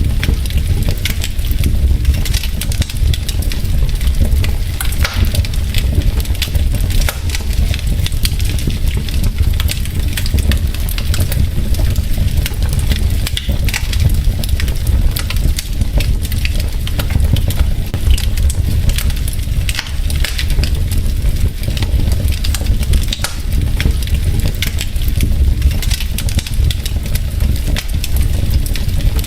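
Wood fire burning in a fireplace: logs crackling and popping in frequent sharp snaps over a steady low rumble of the flames.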